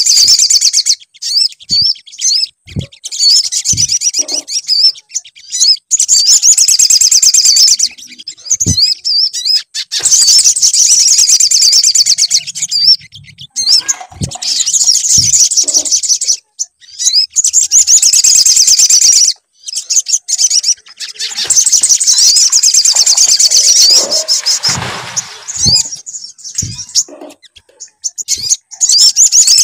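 Sogon birdsong played as a lure recording: rapid, very high trilling phrases in bouts of a few seconds with short pauses between them, and a few faint low knocks.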